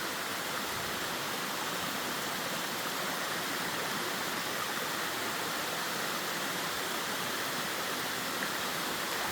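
Steady, even rushing of water, with no change in level throughout.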